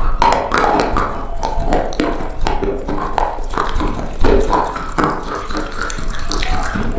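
Close-miked crunching and chewing: a stream of crackling bites and wet mouth sounds.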